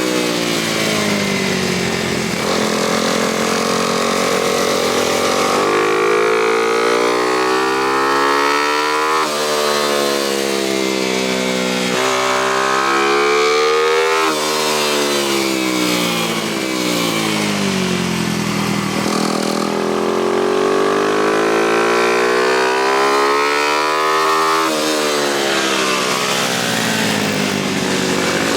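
Single-cylinder motorcycle engine being ridden hard around a track, its revs climbing under acceleration and then dropping back over and over, every two to four seconds, as the rider opens up on the straights and shuts off for the corners.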